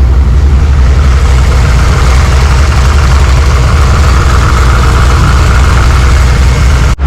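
406 small-block Chevy V8 idling steadily with a strong low rumble. The sound drops out for an instant near the end.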